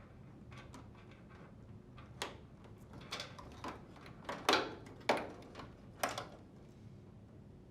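A string of sharp plastic clicks and light knocks, about six over several seconds with the loudest near the middle: the dryer's wire harness connectors being plugged together and snapped into place.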